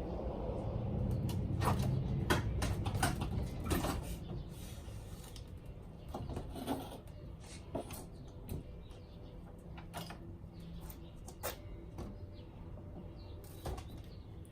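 Scattered sharp clicks and knocks of hands working on a car in a garage. A low rumble runs under the first few seconds, then the knocks thin out to single ones every second or two.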